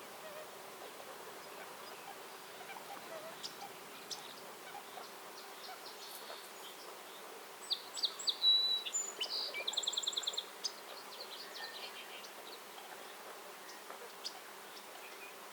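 Small songbirds chirping, with a burst of calls and a fast, even trill about halfway through, over a steady buzz of flying insects.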